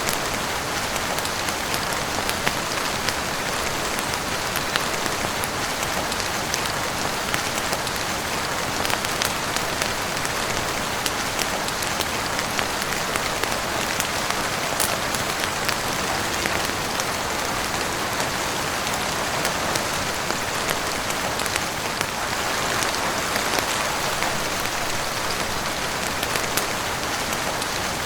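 Heavy rain falling steadily on a roof, a dense even hiss with many scattered sharp ticks.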